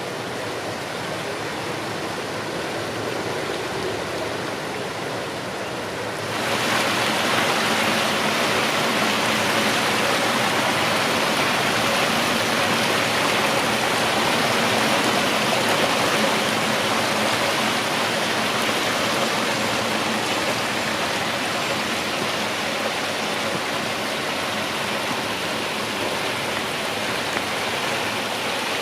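Water cascading down the stone channels and fountains beside the terrace steps, running steadily. About six seconds in it jumps to a louder, brighter rush of water that holds steady.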